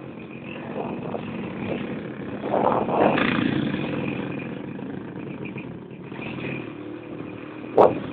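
Motorcycle engine of a Filipino tricycle running as it drives along, heard from on top of the vehicle. It swells for a moment about two and a half seconds in, and a single sharp knock comes near the end.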